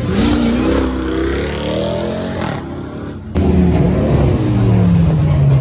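Car engine revving, its note rising and falling over the first two and a half seconds. About three seconds in it changes abruptly to a louder, lower engine note that slowly drops in pitch.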